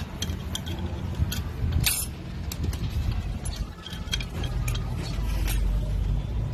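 Scattered light clicks and clinks of metal automatic-transmission parts being handled and fitted, over a low rumble.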